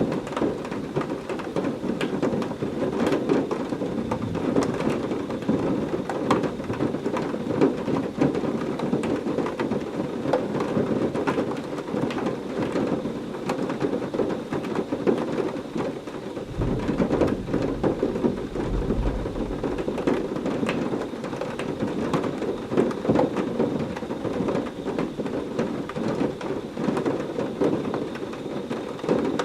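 Heavy rain falling steadily, with many small drop ticks. About halfway through, a low rumble of thunder rolls for a few seconds.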